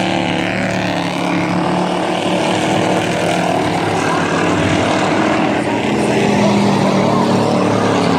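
A pack of dirt-track race trucks running at racing speed, their engines blending into one loud, steady drone. The pitch dips and climbs again twice as the trucks lift and get back on the throttle through the turns.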